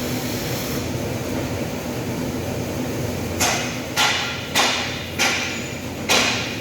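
A hammer strikes metal five times in an even rhythm starting about halfway through, each blow sharp with a short metallic ring. Steady workshop background noise runs underneath.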